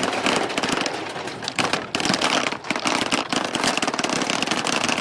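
Many balls rolling down a wooden marble-run track, clicking and clacking against each other and the wood in a dense, continuous clatter.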